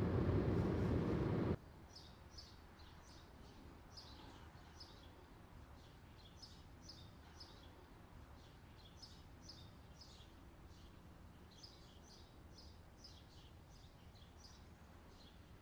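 Small birds chirping in quick, high clusters over a quiet background hiss. It opens with a loud rush of noise that cuts off abruptly about a second and a half in.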